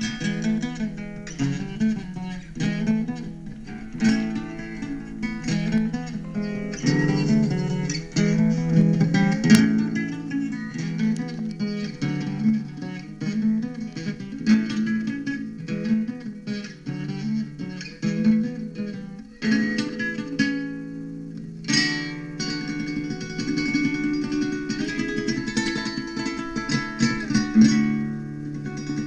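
Acoustic guitar music: plucked notes and strums in a steady repeating rhythm, with no singing, changing its pattern about two-thirds of the way through.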